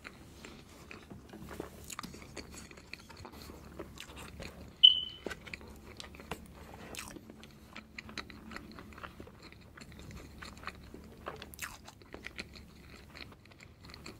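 Close-miked mouth sounds of a man chewing and swallowing a mouthful of cream cake: soft, wet smacks and small clicks. A short, sharp high-pitched squeak about five seconds in.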